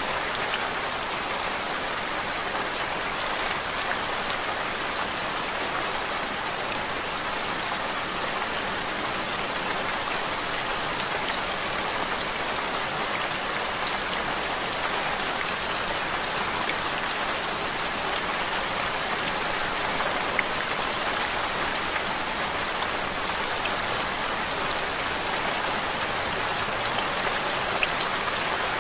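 Steady rain: an even hiss dotted with the fine patter of many small drops, unchanging throughout.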